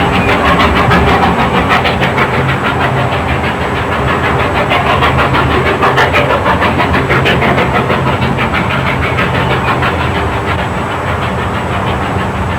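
Steam train running along the track, with a quick, steady beat of strokes over a continuous low rumble.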